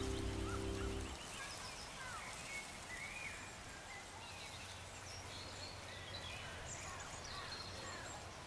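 Background music stops about a second in, leaving faint outdoor background noise with scattered short bird chirps.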